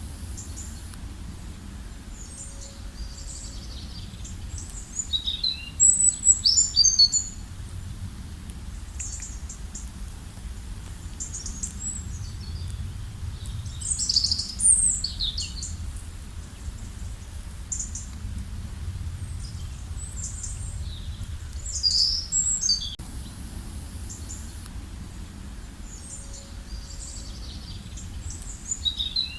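Small birds chirping and trilling in quick high-pitched phrases, coming in clusters with the loudest bursts about six, fourteen and twenty-two seconds in, over a steady low background rumble.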